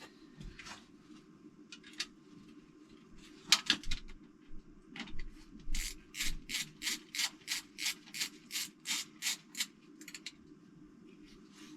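Rhythmic rubbing or scraping strokes, about three a second for some five seconds, with a few sharp clicks just before they start.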